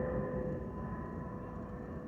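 Boeing 757-232's Pratt & Whitney PW2037 turbofan engines running with a steady whine over a low rumble, fading slowly as the jet moves away.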